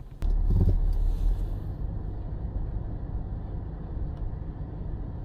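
Off-road truck engine revving hard about a quarter second in, then running on steadily under load as it pulls on a recovery strap to drag a stuck SUV out of deep snow.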